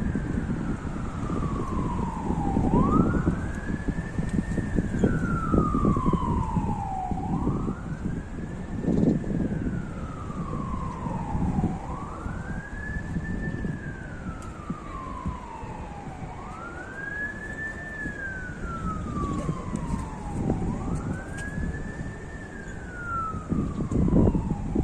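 Siren wailing in a repeating cycle: the pitch rises quickly and then falls slowly, roughly every four and a half seconds. Gusty wind rumbles on the microphone underneath.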